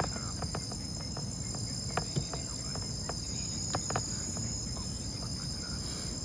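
Steady high-pitched chirring of night insects, with a low background rumble and a few faint scattered clicks.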